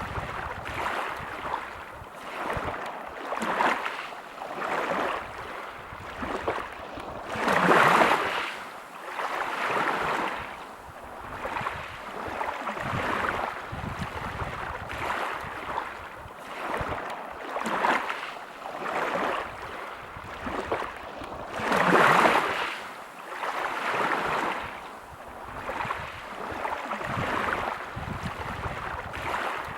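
Waves breaking on a pebble beach, the wash of water and pebbles swelling and fading every couple of seconds. Two bigger waves break about eight seconds in and again about twenty-two seconds in.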